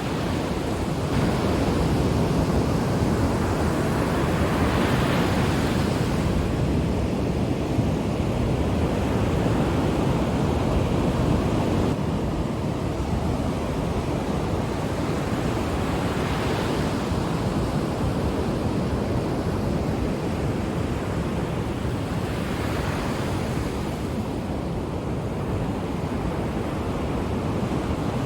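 Ocean waves breaking on a shore: a continuous rush of surf that swells every several seconds as waves come in.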